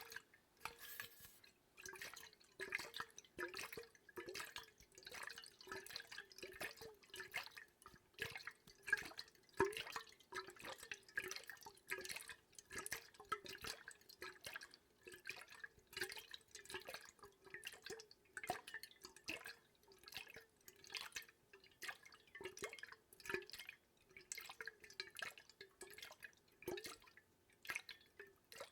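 Water dripping close to the microphone: many small drops in quick, uneven succession, each a short plink.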